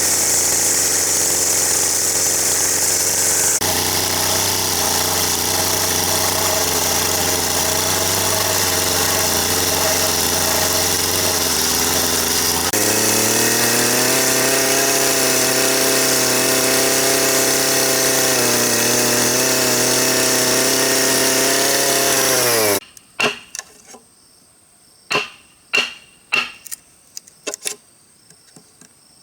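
A small engine or motor-driven tool running steadily, its pitch jumping abruptly twice. It stops suddenly near the end, and a series of sharp, separate knocks follows.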